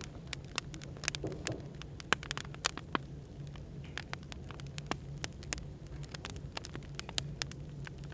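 Wood fire crackling, with irregular sharp pops and snaps, over a steady low hum of cafe background noise.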